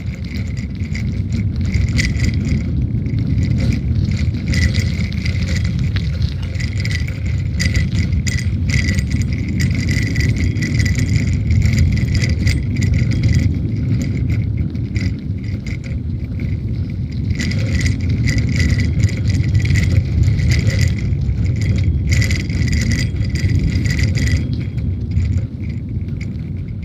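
Bicycle riding along a woodland path: a steady low rumble of tyres and wind on the microphone, with frequent small rattles and jangles from the bike.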